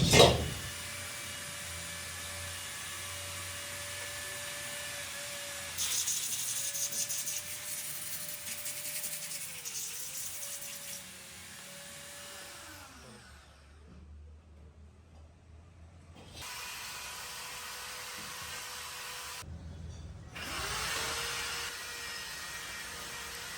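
A small power tool's electric motor whining steadily. Its pitch dips briefly a few times as if under load, with a harsh grinding hiss over it for several seconds. About twelve seconds in it spins down; later it runs again, and near the end it spins back up with a rising whine.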